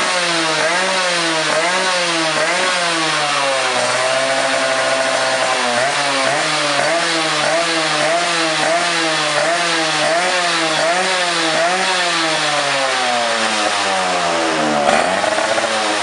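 Suzuki RC100 two-stroke engine revved through an aftermarket racing exhaust, the throttle blipped over and over so the pitch rises and falls repeatedly. It is held at a steady rev for a moment about four seconds in, blipped faster through the middle, then dips and climbs in one long rev near the end.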